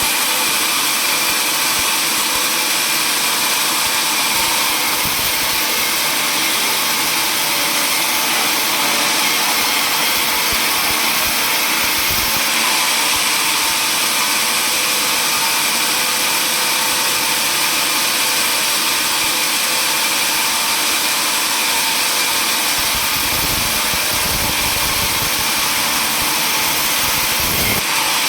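Power saw running steadily with a constant high whine over loud machine noise.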